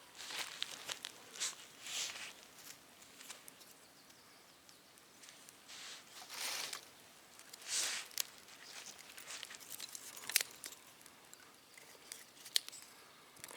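Irregular rustling and crunching of dry kindling and birch bark being handled while a small campfire is lit, with a few sharp snaps.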